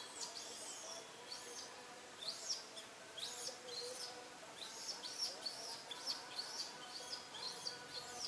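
Small birds chirping: quick, high chirps that each sweep downward, repeated several times a second and coming thicker from about two seconds in.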